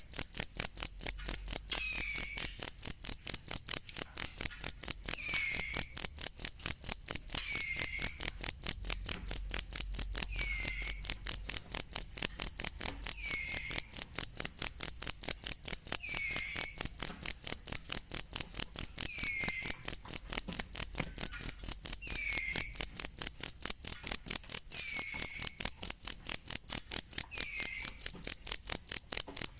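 Cricket chirping continuously in a fast, even, high-pitched pulse. A fainter falling note recurs about every two and a half seconds beneath it.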